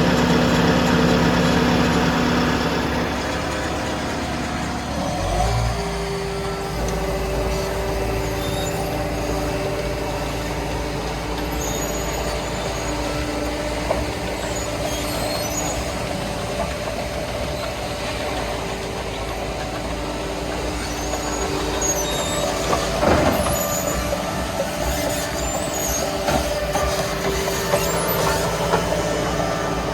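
Diesel engine of a BOMAG BF 350 C-5 asphalt paver running steadily, its note changing to a lower, steadier engine speed about five seconds in.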